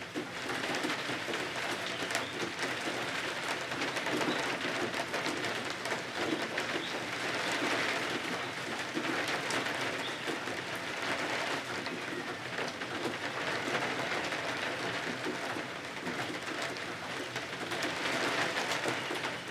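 Steady rain pattering, a dense hiss of many small drop ticks that swells and eases slightly.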